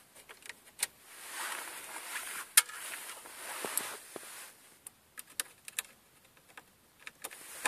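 Hand-work noise at the steering column: a stretch of rubbing and scraping from about one to four and a half seconds in, with light clicks and taps throughout, as tools and plastic parts around the wiper stalk's screws are handled.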